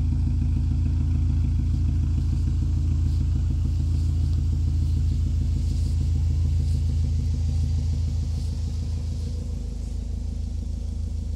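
Honda Civic Si (EM1) with its 1.6-litre DOHC VTEC four-cylinder idling steadily, a low even rumble with no revving. It grows a little quieter about eight seconds in.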